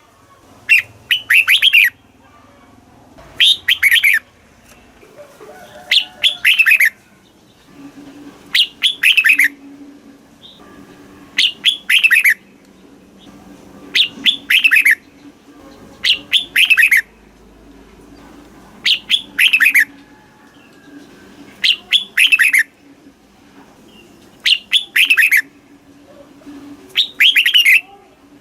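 Red-whiskered bulbul singing its short, loud song phrase over and over, one phrase about every two and a half seconds, each a quick run of a few bright notes.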